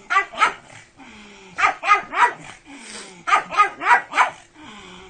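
A pug barking in quick runs of short, sharp barks: two, then three, then four, about nine in all.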